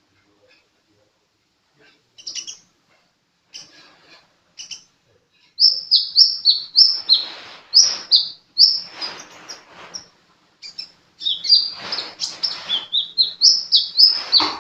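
Sunbird (a 'kolibri' bird) singing: a few scattered high chirps, then about five seconds in a fast run of high, downward-slurred notes. The run pauses briefly near ten seconds and picks up again, faster.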